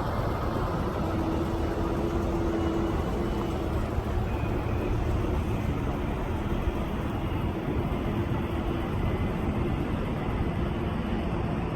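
Semi truck's diesel engine running steadily at low speed.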